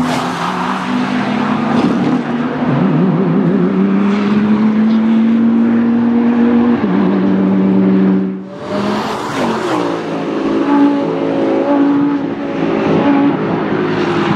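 High-performance sports car engines at full throttle on a racetrack, the engine note rising and then stepping down as the driver shifts gears. About eight seconds in there is a short break, then another car's engine takes over.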